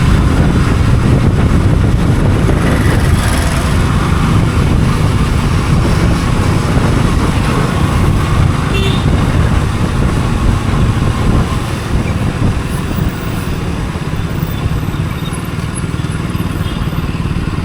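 Motorcycle running while being ridden, heard as a steady, heavy low rumble that eases slightly in the last few seconds.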